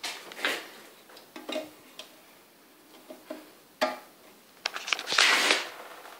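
Scattered clicks and knocks of hands working on a British Seagull Model 55 outboard while it is readied for its first start, then a short, loud rushing noise about five seconds in.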